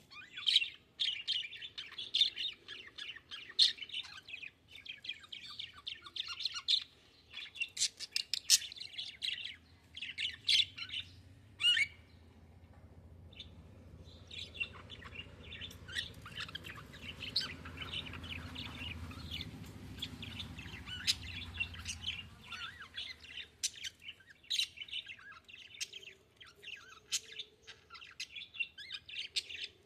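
Budgerigars chirping and chattering in quick, busy bursts, with a brief lull near the middle. A faint low hum runs under the chirping for several seconds after the lull.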